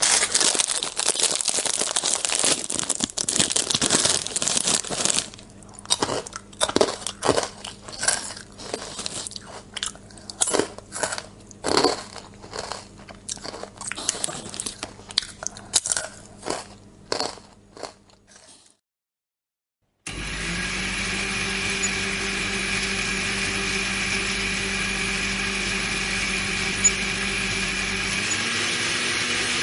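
Popcorn popping: a dense crackle of pops at first that thins out to scattered single pops, over a low steady hum; it stops after about eighteen seconds. After a short silence a steady machine hum with a hiss starts, and shifts slightly in pitch near the end.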